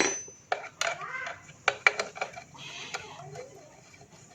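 Scattered sharp metal clinks and taps of tools and small engine parts being handled, several in the first three seconds, then sparser.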